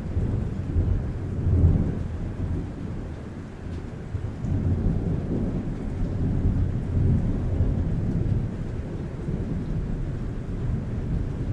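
Thunder rolling in long low rumbles over steady rain on a roof. The loudest rumble peaks about a second and a half in, and a second, longer roll swells through the middle before easing off.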